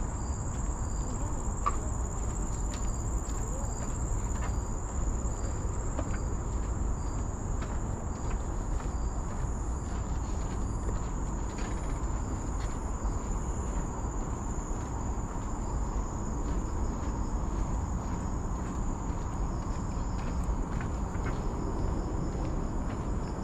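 Insects calling in tropical forest: a steady high-pitched trill runs throughout, with a second insect chirping about twice a second through the first half, over a low rumble.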